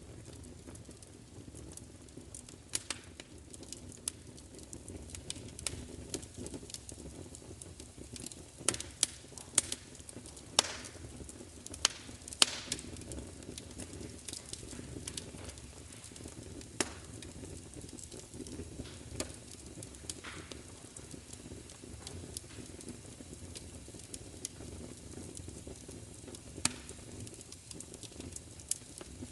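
Fire crackling: sharp, irregular pops and snaps over a low, steady rumble, with a brief run of louder pops about a third of the way in.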